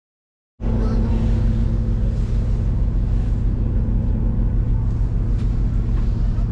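Steady low drone of a passenger train running, heard from inside the carriage, with a constant deep hum. It begins abruptly about half a second in.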